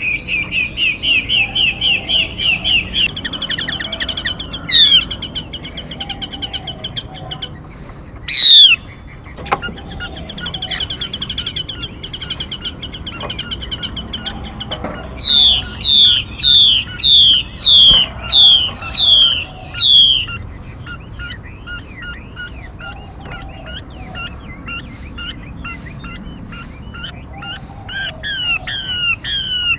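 Recorded songbird calls, presented as a female 'mi' bird's call. It opens with fast runs of repeated high notes and a brief trill. A loud down-slurred whistle comes about eight seconds in. In the middle there is a series of about ten loud, clear descending notes, roughly two a second, followed by softer chirping notes.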